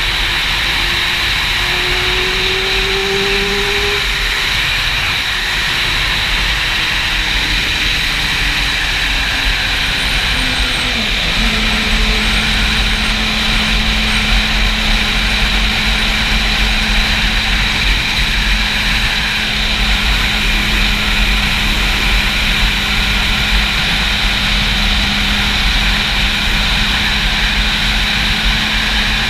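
Heavy wind noise on the helmet camera's microphone, over a Yamaha YZF-R6's inline-four engine on the move. The engine note rises for the first few seconds, then slides down and settles into a steady cruising note about a third of the way in.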